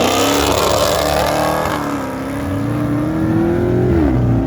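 A car engine accelerating: its pitch climbs at the start, holds, climbs slowly again, then drops sharply near the end.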